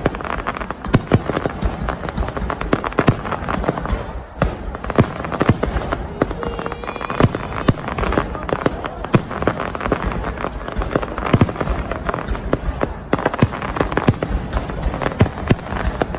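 Fireworks going off in a dense, continuous barrage: many sharp bangs and crackles, several a second, over a steady noisy rumble.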